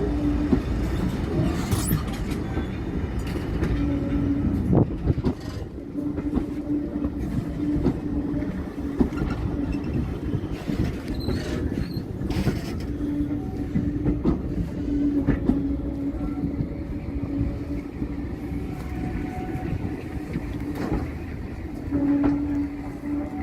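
Diesel train running on the line: a steady low engine note that comes and goes, with wheels clicking over rail joints.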